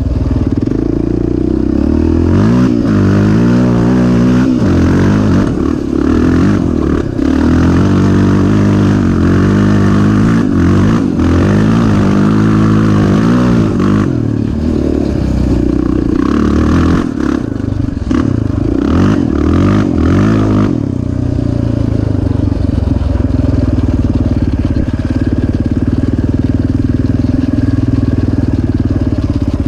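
Off-road vehicle engine, loud, revving up and falling back again and again as it is ridden hard, then settling to a steadier, lower running note about two-thirds of the way through.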